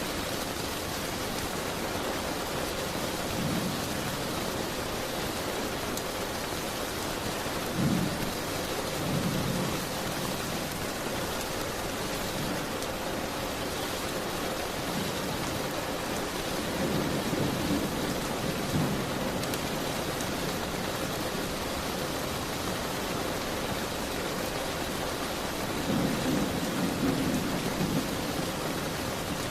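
Steady rain hiss, even and unbroken. Soft low rumbles swell up several times, twice in the first third, around the middle and again near the end.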